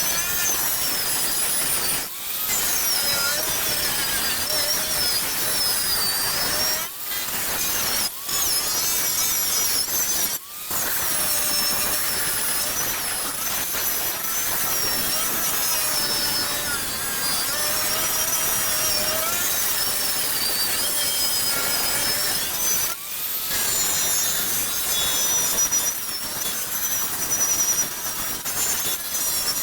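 Angle grinder with a wire wheel scouring rust off the MGB GT's steel floor pan. Its pitch wavers up and down with the load, with a few short breaks where it is lifted off or eased.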